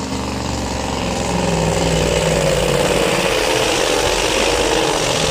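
The heavily modified Scania pulling truck's diesel engine running hard under load as it pulls the sled. It grows louder about a second in, then holds a steady, slightly wavering note.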